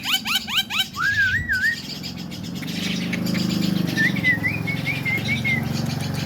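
Javan myna calling: a fast run of repeated rising chirps, about five a second, that stops about a second in, then a short wavering whistle, and a few seconds later a warbled whistle.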